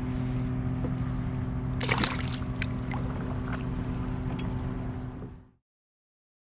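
A steady low engine hum holding one pitch, over a wash of water and wind noise, with a short noisy splash or rustle about two seconds in. The sound fades out to silence about five seconds in.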